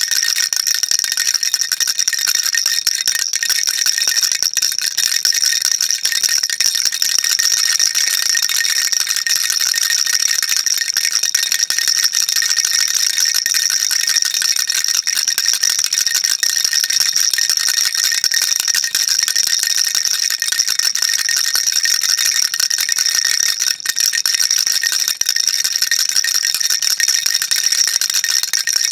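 Baby rattle shaken continuously: a dense, unbroken, high-pitched rattling that keeps an even level without pauses.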